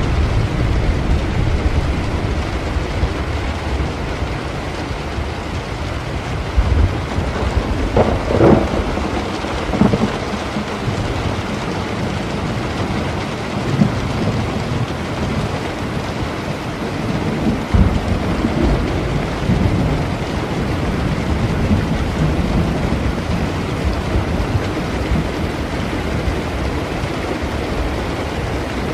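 Steady rain with low rumbling thunder throughout, and a few short sharp cracks about eight to ten seconds in.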